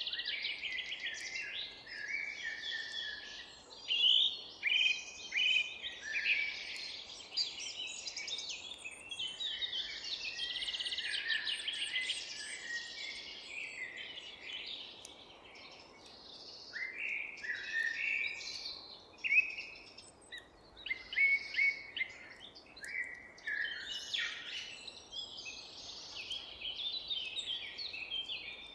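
Several songbirds singing and chirping at once, a dense chorus of overlapping quick high phrases and calls, over a faint background hiss.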